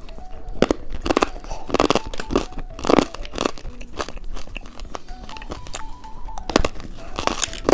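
Hard candy, a rainbow lollipop, being bitten and crunched close to the microphone: a quick run of crisp crunches, a pause, then a few more near the end, over soft background music.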